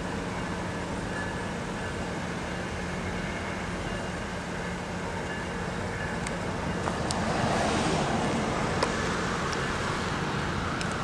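Diesel-hauled MARC commuter train pulling away and fading into the distance, heard as a steady low engine hum. A louder rush of vehicle noise swells and fades about eight seconds in, with a few sharp clicks.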